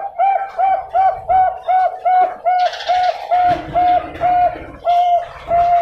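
Bangkok-strain zebra dove (perkutut) singing a fast, even series of short coos, about three a second, spacing out slightly near the end.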